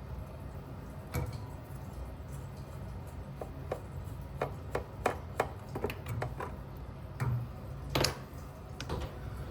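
Hand tools clicking and knocking against plumbing fittings and a valve: a run of irregular sharp taps, the loudest pair near the end, over a steady low hum.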